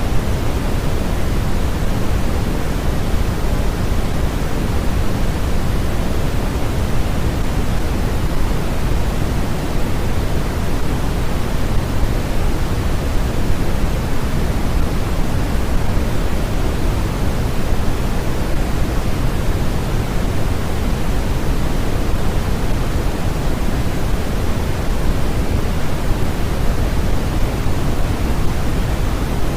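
A continuous, steady generated noise track of the kind used for sleep or focus, even and unchanging, with more weight in the low end than in the highs.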